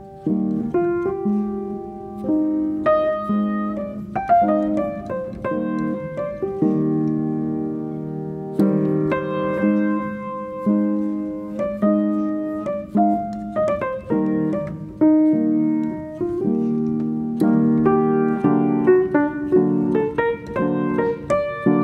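Background music: solo piano playing a slow melody with chords, notes struck and left to ring.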